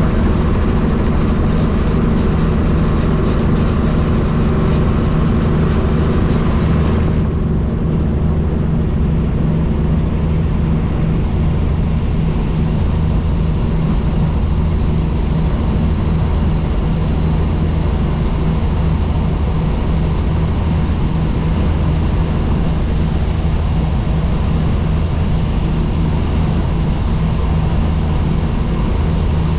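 Helicopter in flight: a steady, loud drone of rotor and engine, with even low tones underneath. About seven seconds in, the high hiss drops away abruptly while the low drone carries on.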